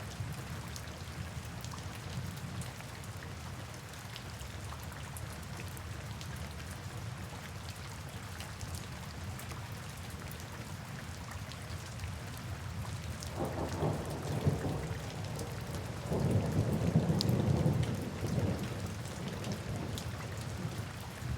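Steady rain with scattered drop ticks over a deep, even brown-noise hiss. Past the middle come two rolls of thunder, the second louder and longer.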